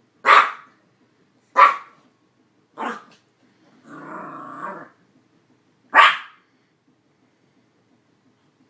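A dog barking: four single loud barks spaced a second or more apart, with a growl of about a second between the third and fourth barks.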